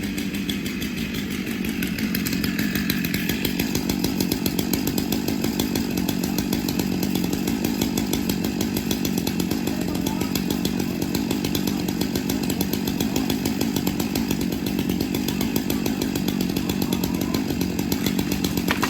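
Chainsaw engine running steadily, a little louder from about two seconds in.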